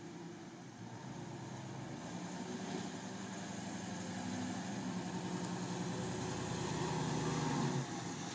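Engine of a 1937 Ford roadster hot rod running at low speed as the car drives up. It grows steadily louder as the car approaches and passes close by, then drops off sharply near the end.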